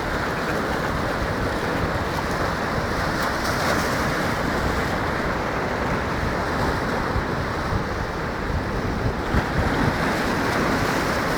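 Rough sea surf: waves surging and breaking in a steady wash of noise, with wind buffeting the microphone.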